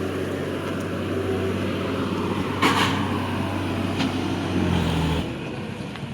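Massey Ferguson 7250 DI tractor's diesel engine running steadily, pulling a heavily loaded trolley of about 80 quintals. A short noisy burst comes about two and a half seconds in, and the engine note drops and quietens about five seconds in.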